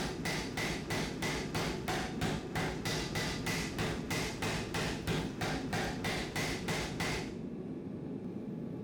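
Blacksmith's hammer forging hot metal on an anvil in a quick, steady rhythm of about three blows a second, each with a short metallic ring. The hammering stops about seven seconds in, leaving a steady low rumble.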